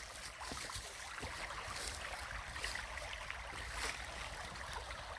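Shallow brook water flowing and trickling steadily, with a faint low rumble underneath.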